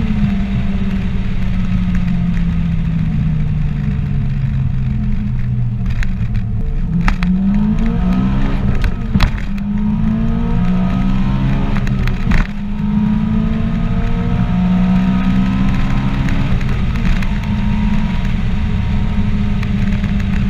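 Acura RSX Type-S 2.0-litre four-cylinder with cold-air intake, header and Invidia Q300 exhaust, heard from inside the cabin. The revs fall away for the first few seconds, then climb again in hard acceleration pulls, with a few sharp knocks along the way.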